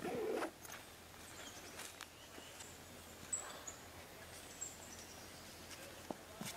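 Quiet outdoor ambience with a few faint, very high bird chirps.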